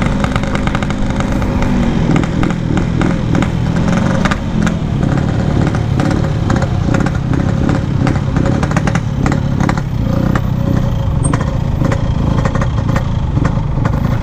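Yamaha RX-King two-stroke single-cylinder motorcycle engine running with its characteristic crackle. The engine note drops about two seconds in and carries on at a lower, uneven beat.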